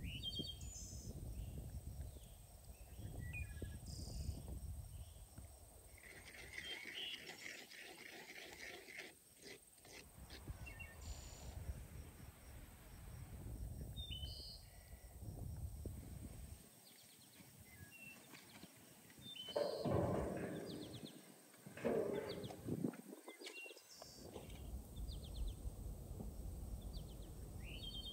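Outdoor ambience with birds chirping here and there over a low rustling background. Two louder rustling sounds come about two-thirds of the way through.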